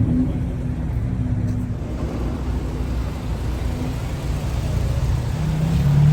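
A car engine running at low revs, a steady low hum whose pitch shifts a little over the seconds.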